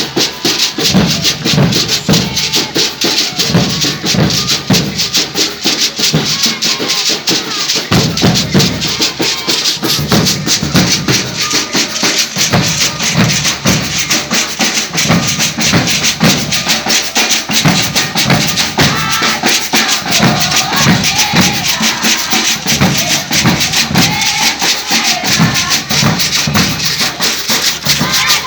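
Maracatu de baque virado drum ensemble playing a steady groove: deep bass drums pulse under a dense, even rattle of snare drums and shakers.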